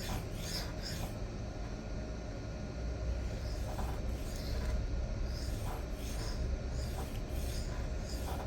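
A D2 steel knife blade drawn in repeated edge strokes across a diamond sharpening stone, a scraping rasp with each pass. The strokes stop about a second in and resume more softly after a few seconds, over a steady low hum.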